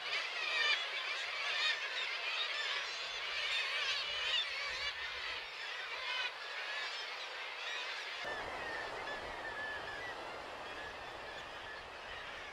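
Parasitic jaegers giving repeated wavering, nasal alarm calls, the defence calls of a nesting pair at an intruder. About eight seconds in, a steady rushing noise sets in under the fainter calls.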